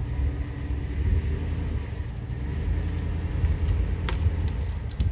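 A vehicle engine running steadily under load as it pulls on the broken tree, with a low rumble; a few brief clicks come about four seconds in.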